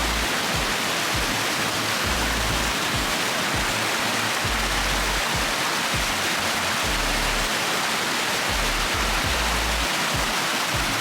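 Steady rushing of water from the waterfall's stream, with background music whose low bass notes come back about every two seconds.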